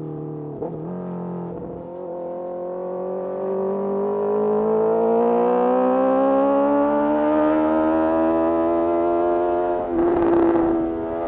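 Honda CBR650R's inline-four engine through a Mivv MK3 carbon exhaust under way. The note breaks briefly twice in the first two seconds, then climbs steadily in pitch as the revs rise. About ten seconds in there is a short rough burst, after which the note holds steady.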